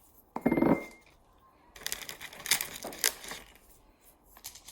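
Small white decorative stones dropped into a potted cutting, clinking: one sharp clink with a short ring about half a second in, then a run of smaller clicks and clinks between about two and three and a half seconds.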